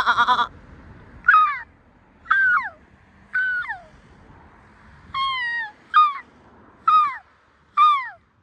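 Seagulls calling: a quick stuttering run of notes, then about seven loud drawn-out cries roughly a second apart, each falling in pitch.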